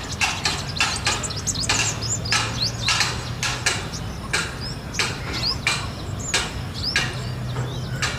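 Purple sunbird calling: a rapid, irregular series of sharp, clipped notes, about two or three a second, with brief high notes that slide upward in between.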